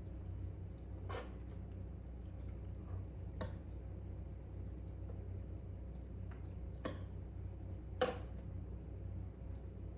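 Curry chicken and sauce being spooned from the pot onto a plate: a few short clinks of the serving spoon, the loudest about eight seconds in, over a low steady hum.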